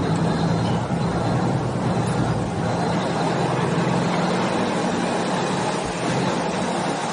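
Engine running at a steady drone, a constant low hum under a noisy rush.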